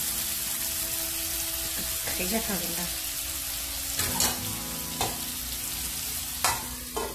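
Pork and raw mango pieces sizzling in hot oil in an aluminium wok as a metal spatula stirs them. In the second half there are a few sharp metal clinks against the pan.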